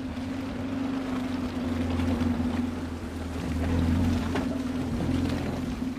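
Open-top six-wheeled military staff car driving past with its engine running as a steady low drone. The sound grows loudest about four seconds in as the car passes close.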